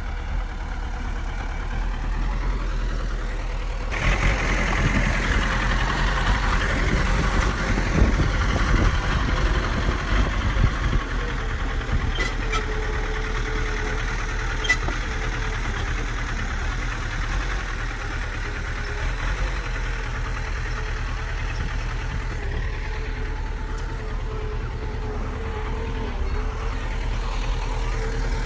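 Heavy diesel engine of earth-moving machinery running steadily, working harder and louder from about four seconds in, then settling back.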